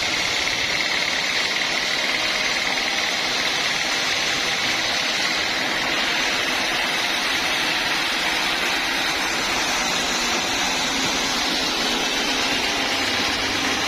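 Homemade band sawmill running steadily, a loud even mechanical noise with a high hiss-like band, as heard while sawing teak logs.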